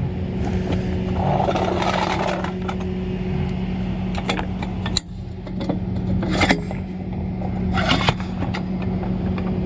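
Vehicle engine idling steadily, with a few sharp clanks and scrapes in the second half.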